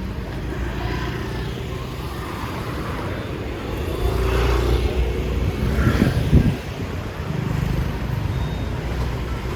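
Street traffic rumbling steadily, with a motor vehicle passing close about four to six seconds in, swelling and then falling away.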